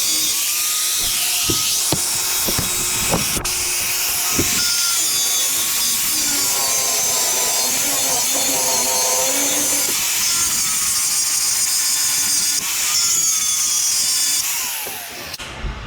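Grinder with a cutting wheel cutting the ends off the worn pins of a box manure spreader's drag chain. Its pitch wavers as it bites, and it winds down near the end.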